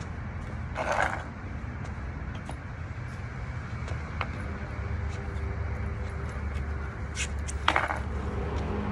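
A low, steady rumble from an amateur outdoor recording of a reported skyquake, the unexplained booming sound heard in the sky, with faint steady tones joining in the second half. Two brief rushing bursts of noise come about a second in and near eight seconds.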